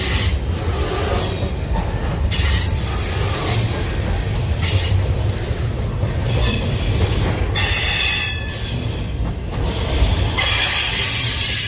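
Union Pacific intermodal freight train rolling past with a steady low rumble, its wheels squealing on and off in high-pitched bursts; the squeal is strongest in the second half.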